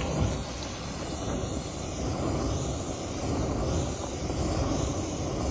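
Oxy-fuel cutting torch burning on fuel gas alone, without oxygen added, giving a steady rushing flame noise.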